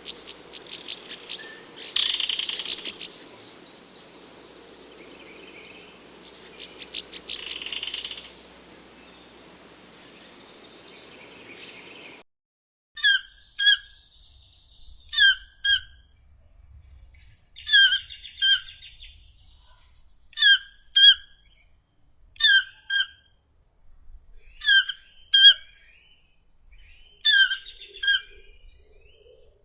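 Birds chirping and singing over a steady background hiss. About twelve seconds in it cuts abruptly to a repeated sharp two-note call, the pairs coming about every two and a half seconds.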